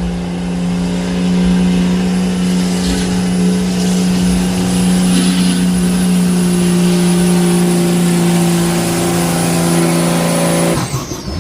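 Pulling truck's engine held at full throttle, a loud steady drone while it drags the weight sled, with a thin high whine above it. Near the end the throttle is lifted and the engine drops off suddenly, and the whine slides down in pitch.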